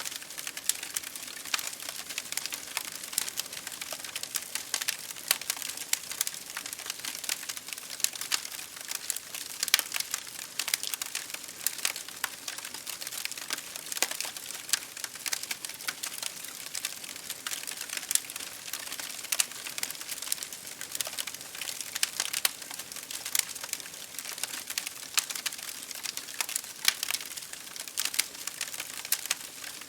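Wood fire crackling in a fireplace, with dense, irregular sharp pops and snaps, over a steady patter of rain against a window.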